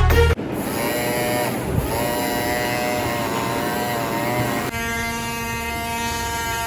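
Small electric mini motor of a homemade inflatable boat running with a buzzing whine, its pitch wavering at first and then holding steady from about two-thirds of the way in.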